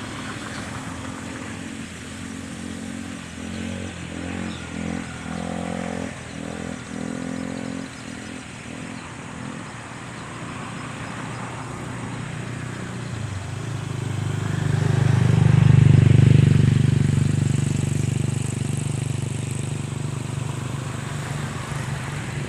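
A motor vehicle's engine passing by, growing louder to a peak about two-thirds of the way through and then slowly fading.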